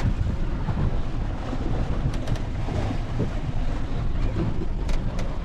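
Water rushing along the hull of a sailboat under sail, heard from inside the cabin as a steady low rumble, with a couple of faint clicks.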